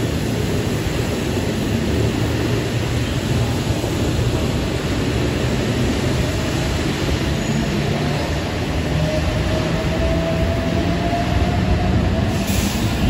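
Heritage passenger carriages rolling past along an underground platform: a steady low rumble of wheels on rail, echoing under the station roof. A faint thin whine slowly rises from about eight seconds in.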